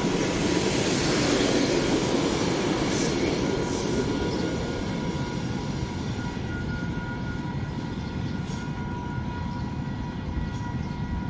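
A train running past on the rails, its rumble slowly fading, with thin steady high-pitched tones over it.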